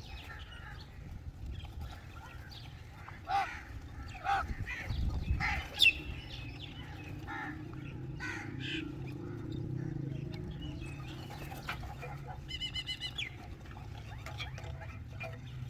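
Crows cawing: a string of short harsh caws through the first half, the loudest about six seconds in. A brief rapid high twittering comes near the end, over a steady low rumble.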